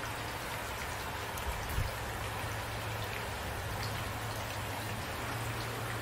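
Steady rain falling, an even hiss with scattered individual drops ticking, and a brief low thump about two seconds in.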